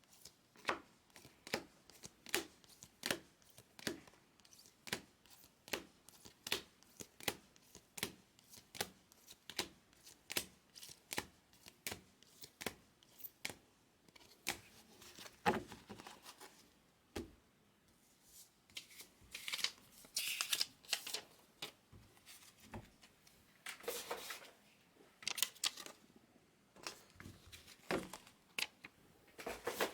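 Baseball cards being handled and sorted on a table: light taps about twice a second as cards are flipped or set down one by one. Later come a few longer papery rustles.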